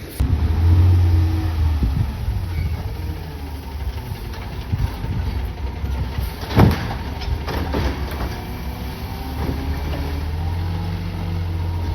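CNG garbage truck engine running steadily at low revs. A sharp bang comes a little past halfway, the loudest moment, followed by a lighter knock about a second later.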